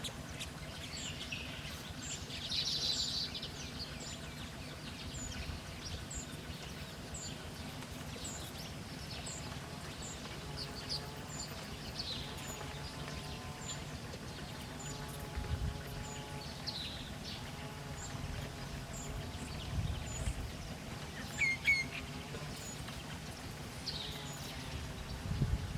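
Wild birds chirping: a string of short, high chirps about once a second, with other bird calls scattered among them, over a low steady hum of background noise.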